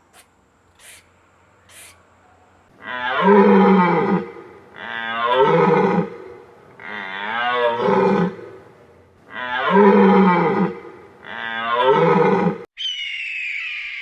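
An animal calling five times in a row, each call about two seconds long with a wavering pitch, followed near the end by a single higher, falling call from another animal.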